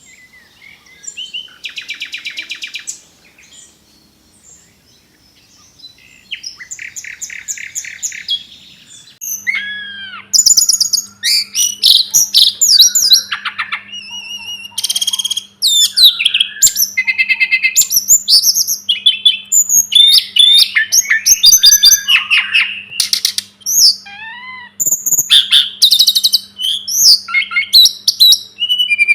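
Tledekan gunung (sulingan gunung) songbird singing. It gives a couple of soft rapid trills at first, then from about nine seconds a loud, unbroken run of varied high chirps, whistles and fast trills. A steady low hum comes in with the loud part.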